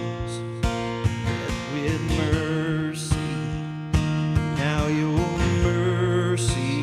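Worship band music: strummed acoustic guitar over a steady drum beat, with a wavering melody line above.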